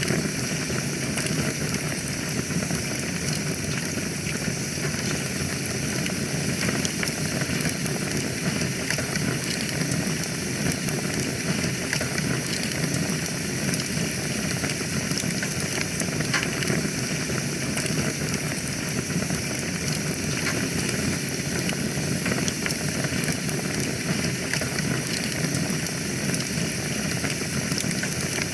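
Wood fire burning in a fireplace: a steady hiss and low rumble with small scattered crackles and pops.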